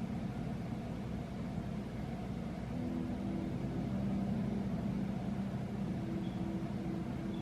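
A steady low hum made of several held tones, some of which shift about three seconds in and again near the end.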